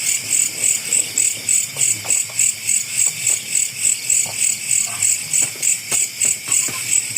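Night insects, cricket-like, chirping in a steady high-pitched pulse about three times a second.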